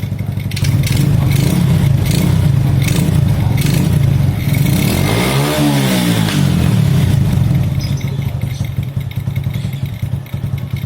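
Honda C70's Supra Fit single-cylinder four-stroke engine running after a carburettor cleaning. It is blipped once around the middle, rising and falling in pitch, then settles back and runs a little quieter near the end.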